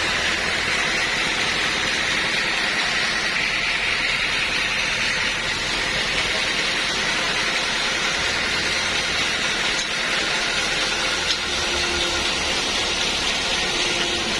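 Sawmill machinery running with a steady, loud mechanical noise.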